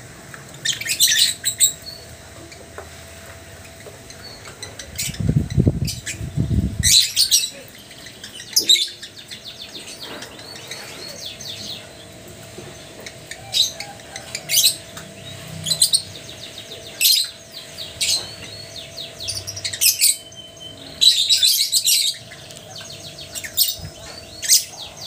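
Lovebirds giving bouts of shrill, rapid chirps and screeches at irregular intervals, a dozen or so short bursts. A low muffled rumble sounds for a couple of seconds about five seconds in.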